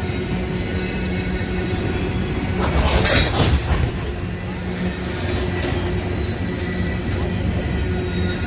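Diesel freight train running steadily with a low engine hum, with a brief louder rushing swell about three seconds in.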